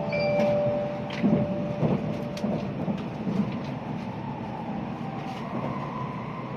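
Inside a Shinkansen passenger car: the steady low rumble of the train running at speed, with scattered light clicks and knocks. The last held tones of the onboard announcement chime die away in about the first two seconds.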